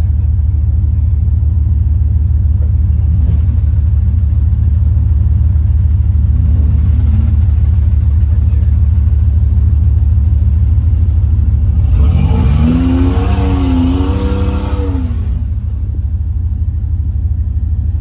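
Off-road truck engine running under load on a rock trail. Its revs climb and fall back about twelve seconds in, with smaller rev changes earlier.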